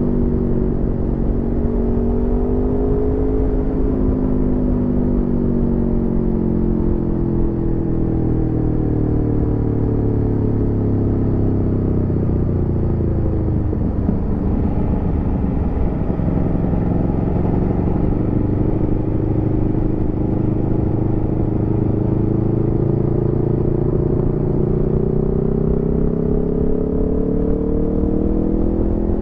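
Aprilia Tuono V4 motorcycle's V4 engine under way: the engine note slowly drops as the bike slows over the first half, then climbs steadily as it accelerates through the second half.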